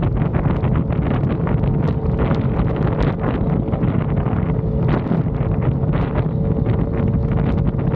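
Yamaha XSR900's inline-three engine running at a steady cruising speed, with heavy wind noise buffeting the microphone.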